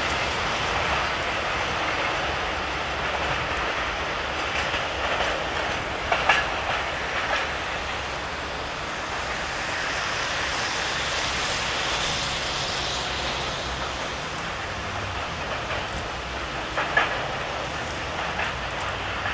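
Freight wagons rolling along the track, a steady rumble of wheels on rail with a few sharp clacks as the wheels cross rail joints, a cluster about six seconds in and another near the end.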